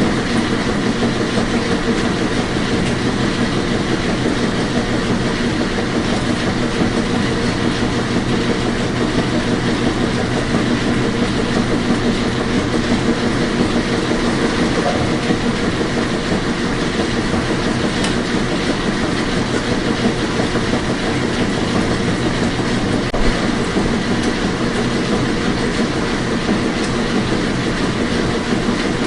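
Washing machine running: an even, steady noise with a constant hum in it.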